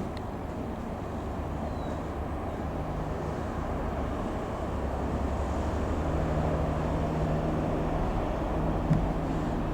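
Piper PA-28-180 Cherokee's single four-cylinder piston engine droning steadily as the plane flies over, slowly growing louder.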